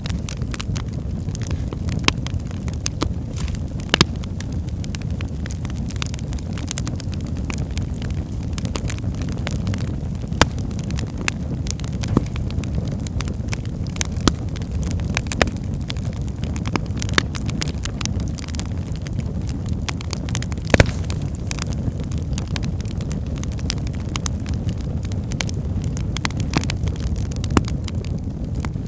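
Wood fire burning in a fireplace: a steady low rumble of flames with sharp crackles and pops from the logs at irregular intervals, a few seconds apart.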